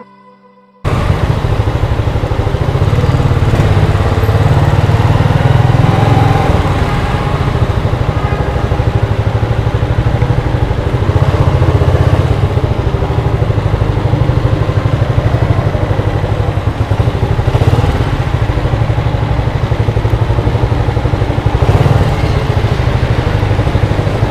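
Small single-cylinder Honda motorcycle engine running at low speed through a concrete parking garage: a steady low rumble that cuts in abruptly about a second in.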